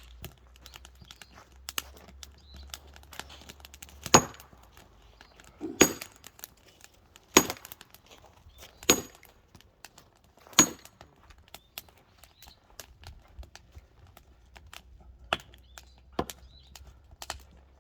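Hammer blows splitting log firewood: five hard strikes about one and a half seconds apart, each with a short metallic ring, then three lighter strikes near the end.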